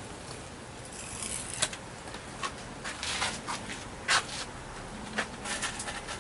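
Scattered clicks, scrapes and rustles of hands working with the grow-light fixture and its hanging hardware, with one sharper click about four seconds in.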